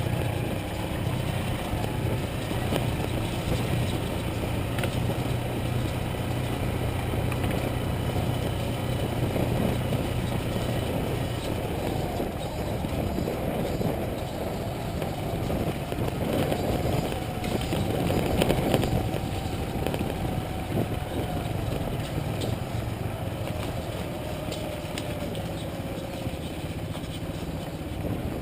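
Motorcycle engine running steadily while riding, with a cluster of knocks and rattles about two thirds of the way through.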